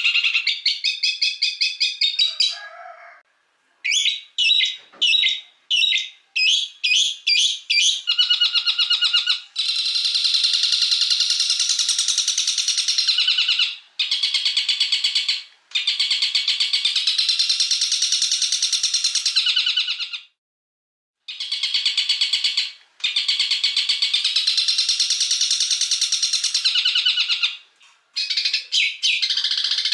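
Songbird song from a masteran recording: fast strings of sharp repeated chirps for the first several seconds, then a series of long rolling trills of about four seconds each, broken by short pauses.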